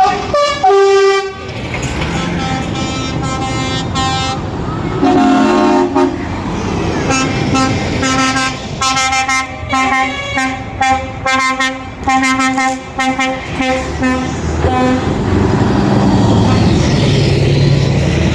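Truck horns sounding in many short, repeated toots, roughly two a second through the middle, over the low running of truck engines, which carry on alone near the end.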